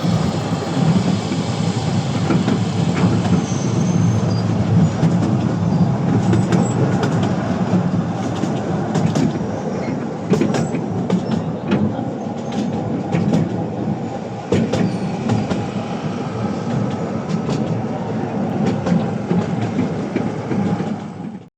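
Artouste narrow-gauge tourist train running along its track with a steady rumble and scattered sharp clicks of the wheels on the rails. The sound cuts off suddenly near the end.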